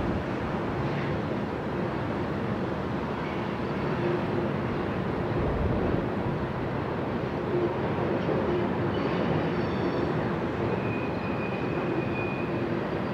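Freight train rolling along the track with a steady rumble. A faint high wheel squeal comes in for a second or two near the end.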